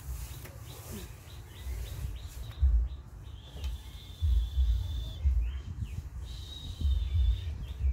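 Birds chirping in the background, including a thin, steady high trill held for about a second and a half, twice. Irregular low rumbling buffets on the microphone are louder than the birdsong.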